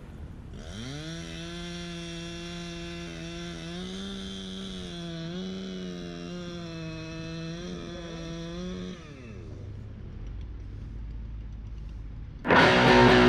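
Chainsaw engine revving up quickly, running at a steady high speed with slight dips in pitch for about eight seconds, then winding down.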